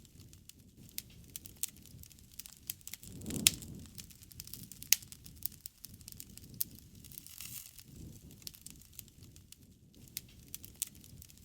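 Wood campfire crackling, with irregular small snaps and a few sharp pops, the loudest about three and a half seconds in and another about five seconds in.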